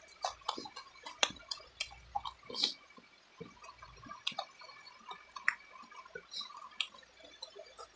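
Close-miked wet chewing of chicken feet: a scatter of short, irregular mouth smacks and clicks.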